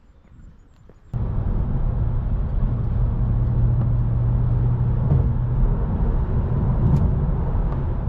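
Car driving, with a steady low engine and road rumble that starts abruptly about a second in.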